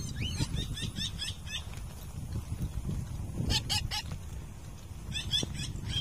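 A bird calling in a series of short, quick, high-pitched chirps. One run fills the first second and a half, a short burst comes about three and a half seconds in, and another around five seconds in, over a steady low rumble of wind on the microphone.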